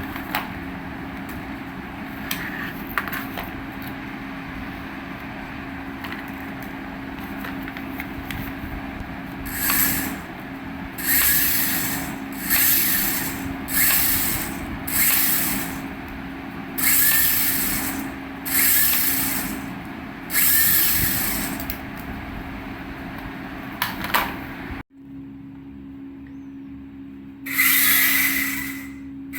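Small electric motor of a Syma toy RC helicopter running with a steady hum. Through the middle come about eight hissing rushes, roughly one every second and a half.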